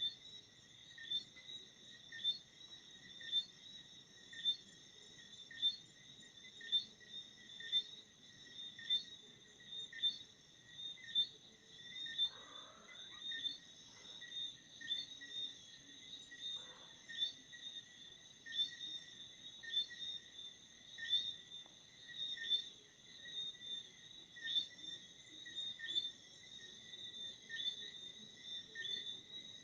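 Crickets chirping in a steady high-pitched chorus, with a louder chirp pulsing about once a second.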